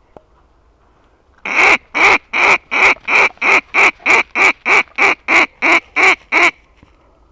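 Duck quacking in a rapid, even series of about fourteen loud, nasal quacks, roughly three a second, that stops abruptly.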